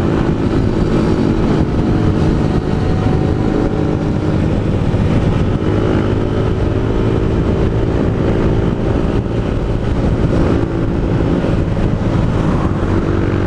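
Honda Fan 160's single-cylinder engine, breathing through an aftermarket Pro Tork GP Competition exhaust, running steadily while riding at an even speed.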